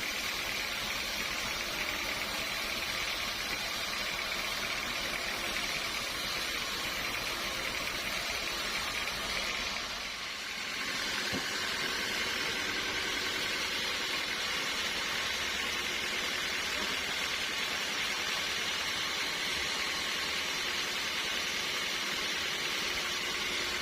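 Sawmill machinery running, a steady hiss-like noise that dips briefly and changes character about ten seconds in.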